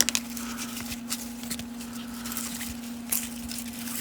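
Baseball cards being handled and slid against one another, with soft papery rustles and light taps, over a steady low hum.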